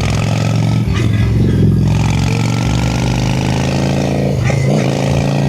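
Honda Shadow V-twin motorcycle engine running steadily, with a brief dip in pitch about four and a half seconds in.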